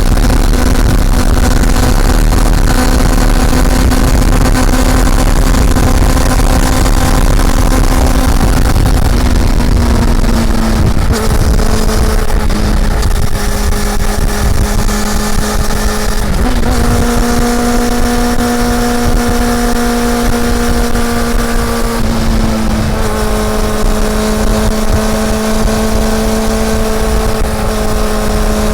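Honda CB400 Super Four's inline-four engine running at steady cruising revs, with heavy wind rumble on the microphone. The engine note drops about ten seconds in, dips and jumps back up about halfway through, and eases off a little later.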